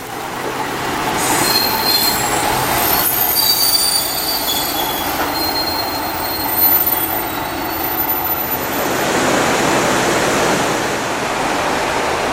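KiHa 37 diesel railcar running on the track, its wheels squealing with high thin tones from about a second in until about nine seconds in, over the steady rumble and rail noise.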